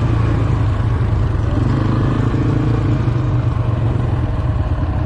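ATV engine running steadily under way, a continuous low drone.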